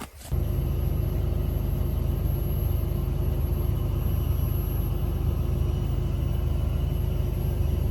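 A steady low rumble that starts abruptly and holds an even level throughout.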